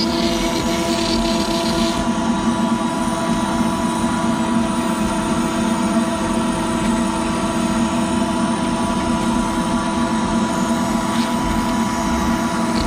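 CNC router spindle running steadily while a 1/8 inch end mill cuts PVC, a whine of several steady tones. A high cutting hiss fades out about two seconds in.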